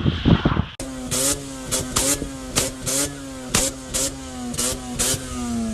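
Wind on the microphone for under a second, then a car engine held at high revs on a two-step launch limiter. Its steady note is broken by sharp exhaust pops about two to three times a second, the pitch dipping after each pop.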